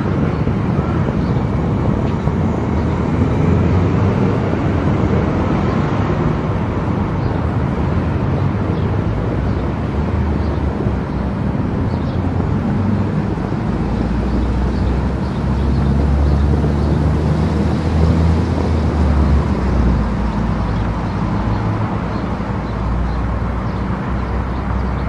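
Car travelling at speed on an expressway: a steady rush of road and tyre noise over a low engine drone, which swells for a few seconds past the middle.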